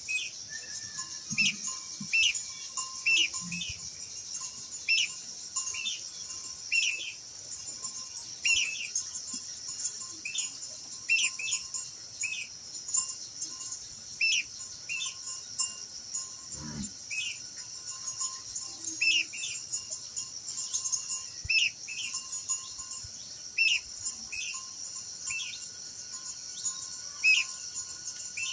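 Minla (khướu lùn) calling: short, sharp high chirps, often in quick pairs, repeated about once a second throughout. A steady high insect buzz runs underneath.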